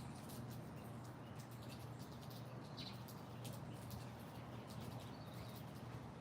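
Birds chirping faintly: a few short, high chirps spaced a couple of seconds apart, over a steady low hum.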